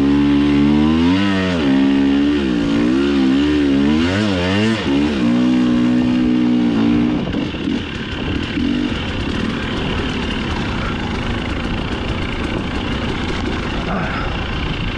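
Dirt bike engine under the rider, its pitch rising and falling again and again as the throttle is worked through the turns. After about seven seconds the clear engine note gives way to a rougher, noisier rumble of engine and trail.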